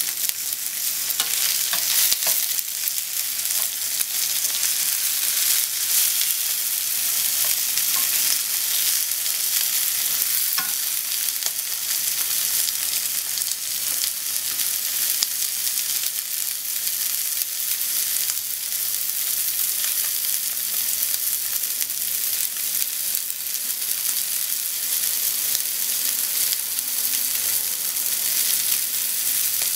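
Pork cutlets and sliced onion sizzling in oil in a nonstick frying pan, a steady dense crackle with a few light clicks in the first few seconds.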